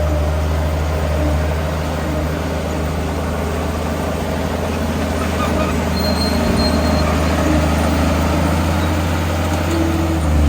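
Heavy diesel engine of earthmoving machinery running steadily, a loud, deep, even drone.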